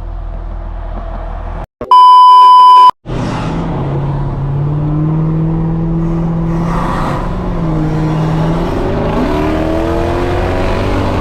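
Lexus SC430's straight-piped V8 with an X-pipe running at low revs, broken about two seconds in by a loud one-second censor bleep at a single pitch. Afterwards the exhaust is louder as the car pulls under load, holding a steady note and then rising in pitch near the end as it accelerates.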